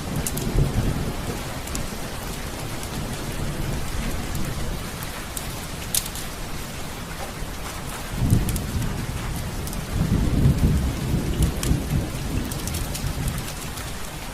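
Heavy rain falling steadily, with low thunder rumbling in, once about eight seconds in and again more strongly about ten seconds in. A few sharp clicks stand out above the rain.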